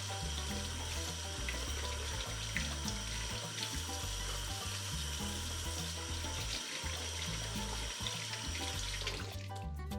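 Water running steadily from a kitchen tap into a sink, shutting off about nine seconds in, over background music with a steady bass line.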